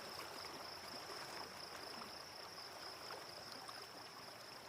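Faint background ambience from the film's soundtrack: a steady low hiss with a thin, constant high-pitched whine, slowly fading out.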